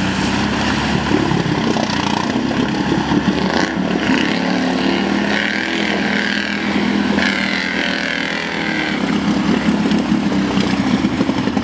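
ATV engines running and revving, with the pitch rising and falling as a machine works the throttle about halfway through.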